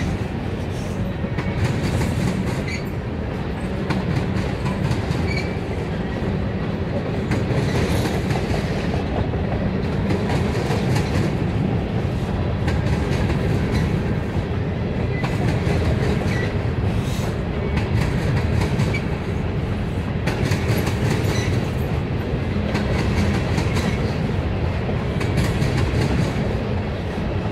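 Freight cars of a mixed manifest train (tank cars and covered hoppers) rolling past at a steady pace: a continuous low rumble, with the wheels clicking over rail joints.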